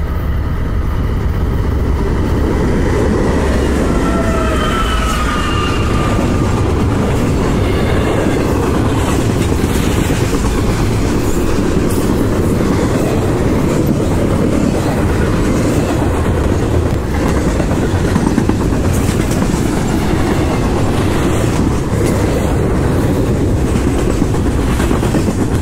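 Freight train of double-stack container cars passing close by at speed: a loud, steady rush of steel wheels running on the rails.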